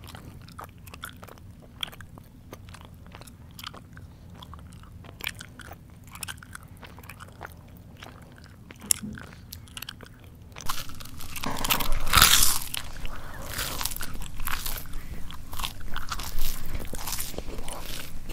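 Close-up chewing by a person's mouth: soft, scattered mouth clicks at first, then from about ten seconds in loud, dense crunching of crisp food, loudest a second or two later.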